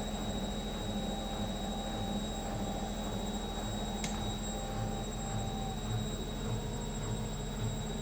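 Electrolux EWM 1044 SEU narrow front-loading washing machine running: a steady motor hum with a low throb pulsing about twice a second, and a single faint tick about halfway through.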